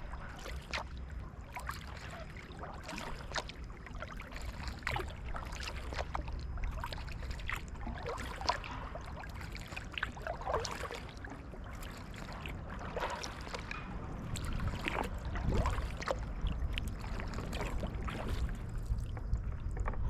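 Water splashing, dripping and gurgling around a kayak, with many small irregular splashes from the paddle and the water against the hull, over a steady low rumble.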